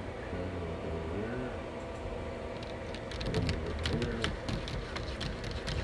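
Cat scratching at a door to be let in: a quick run of scratches and taps starting about two seconds in and carrying on to the end, over faint voices.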